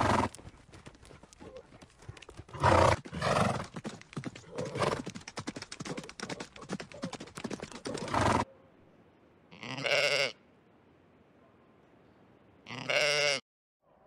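Horses' hooves clopping, with several louder horse calls over them. After a sudden break come two short, wavering animal calls about three seconds apart.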